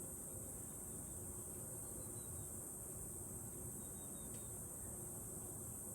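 Steady, high-pitched chorus of crickets, with a couple of faint chirps about two and four seconds in.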